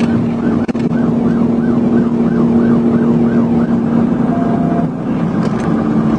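Police car siren in fast yelp, rising and falling about three times a second, heard from inside the pursuing patrol car over a steady engine and road drone at high speed.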